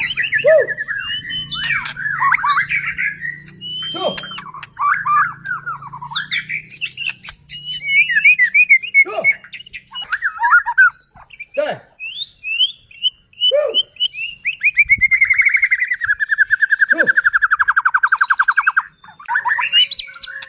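White-rumped shama (murai batu) singing in full voice: a varied run of loud whistled phrases, chirps and quick slurred notes, then a long, fast, buzzing trill of about four seconds near the end.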